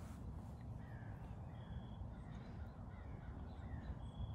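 Faint bird calls: several short falling calls, with two brief high notes about two and a half seconds apart, over a steady low rumble.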